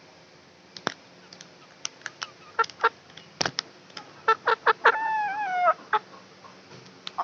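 Aseel chickens clucking in short, sharp notes, with one drawn-out call of under a second about five seconds in, its pitch dipping at the end.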